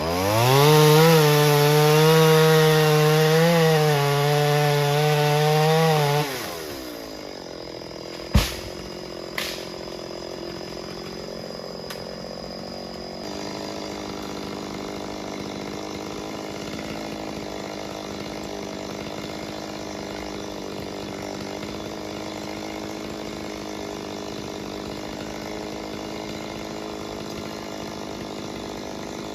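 Chainsaw engine revved from idle to full throttle, held high with slight dips in pitch for about six seconds, then released and falling back to a steady idle. A sharp knock comes about two seconds after the revs drop, and a fainter one a second later.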